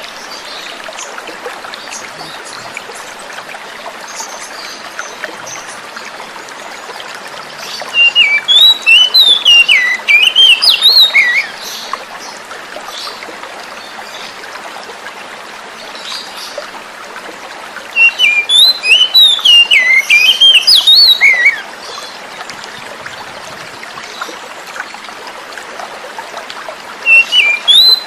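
Oriental magpie-robin (kacer) singing in three bursts of rapid, varied whistled notes, each about three seconds long, over a steady sound of running water.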